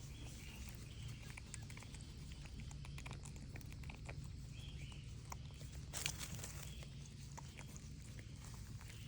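Emus running laps, their feet striking the ground in many quick footfalls, with short animal chirps mixed in.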